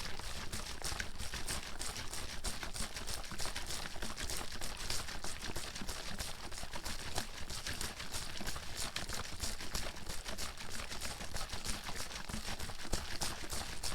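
Water bottle being shaken continuously, the water sloshing inside with a quick, irregular run of knocks.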